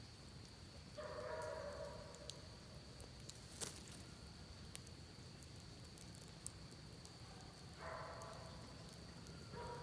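Campfire crackling faintly with scattered small pops and one sharper pop about a third of the way in, over a low, even rush. A steady high thin tone runs throughout, and two short calls stand out, one near the start and one about three-quarters of the way through.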